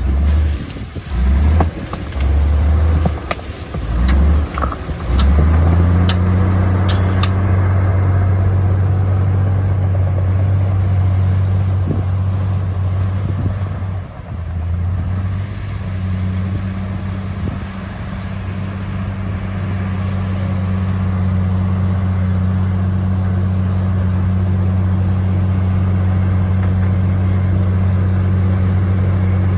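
Heavy diesel earthmoving machine running with a deep drone. For the first five seconds the drone comes and goes in short surges, with scattered clicks and clanks. After that it holds steady.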